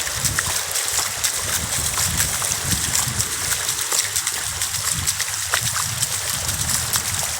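Sea water at the shoreline washing and trickling steadily, with many small splashes.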